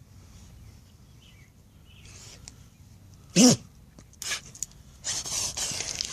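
A dog sneezing: one loud, sharp sneeze about three and a half seconds in, then a smaller burst and a stretch of noisy snorting and scuffling near the end.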